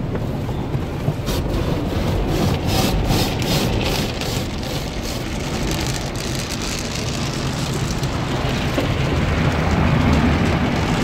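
Automatic car wash heard from inside the car cabin: rotating brushes scrubbing and slapping against the body and water spraying onto it. The scrubbing comes as rhythmic swishes about three a second over the first few seconds, then settles into a steady wash.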